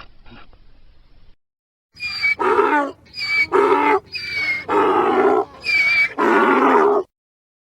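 Donkey braying: four hee-haw cycles, each a short high-pitched wheeze on the in-breath followed by a longer, lower honk on the out-breath. The braying starts about two seconds in and cuts off abruptly near the end.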